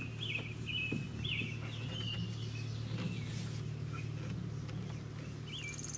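A bird chirping in short, repeated high notes over a steady low hum. Near the end a high, pulsing insect trill sets in.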